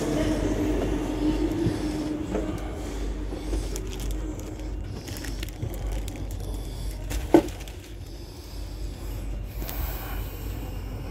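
Low rumble of a train carriage interior, with a hum that fades over the first few seconds, and one sharp knock about seven seconds in.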